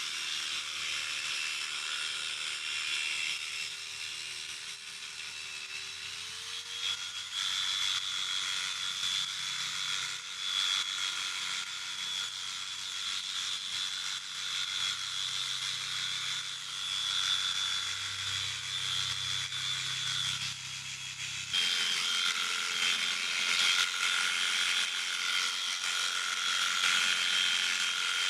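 Electric sheep shears running with a steady motor hum and buzz. The motor's pitch rises slightly about six seconds in, and the sound changes abruptly twice, about a third of the way in and again about three quarters of the way in.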